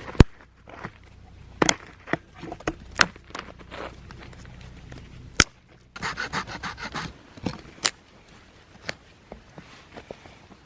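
Scattered sharp knocks and clicks of objects being handled, with a stretch of rapid scraping about six seconds in.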